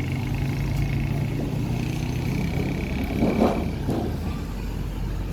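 A motor vehicle engine running close by, a steady low hum that eases off after about two seconds. There is a brief louder noise about three and a half seconds in.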